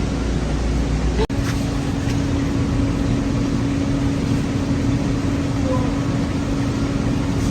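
Steady mechanical hum over a rushing background noise, with a brief cut about a second in after which a constant hum tone runs on.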